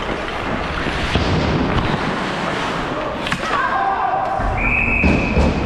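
Hockey game noise in a rink: sharp knocks and thuds of sticks and puck against the boards over a constant din, with held shouts from players about halfway through and near the end.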